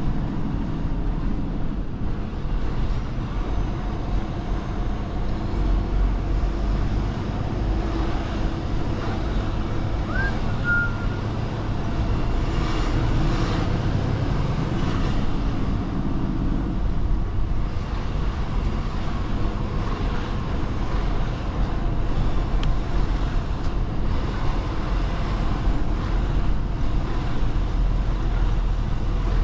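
Mercedes-Benz Actros truck's diesel engine running steadily as the truck drives at low speed, a continuous low rumble. A single brief high chirp sounds about ten seconds in.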